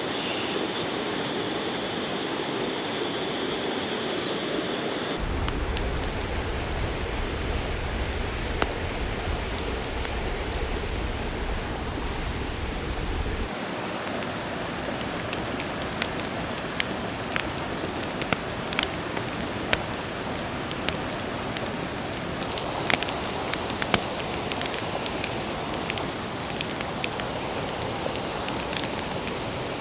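Steady rush of a flowing river, with scattered sharp ticks and crackles over it. A low rumble joins about five seconds in and drops out about eight seconds later.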